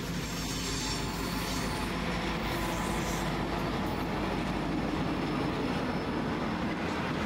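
Two diesel-electric freight locomotives, G-class G512 leading and S-class S303 behind, pass close by with their EMD two-stroke engines running. Loaded container wagons follow, rolling steadily over the track.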